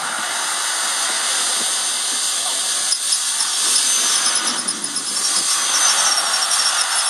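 Cordless electric drill driving a hand winch that cranks a tower up through pulleys: a steady hissing whir, with a rapid run of high clicks joining in from about three seconds in.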